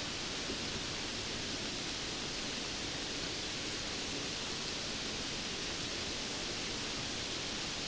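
Steady rain, an even unbroken hiss with no single drops, thunder or other events standing out.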